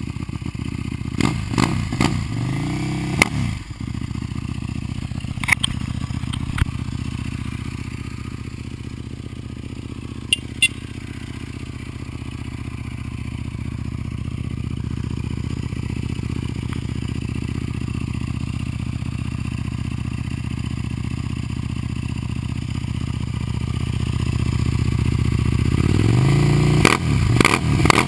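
Buell 1125CR's V-twin engine running through its exhaust: a couple of quick revs near the start, a steady lower run through the middle, then the revs climb again near the end. A few sharp cracks are scattered through it.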